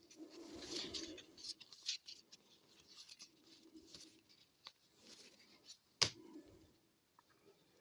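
Trading cards being slid and flipped through by hand: soft rubbing and shuffling, with one sharp snap about six seconds in.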